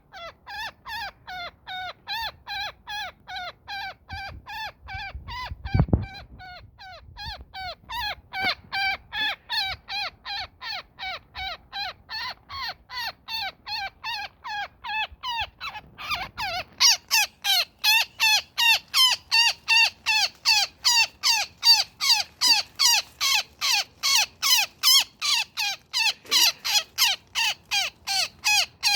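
A woodpecker tangled in a net calling over and over, short harsh calls about three a second that grow louder in the second half: distress calls from the trapped bird. A low bump about six seconds in.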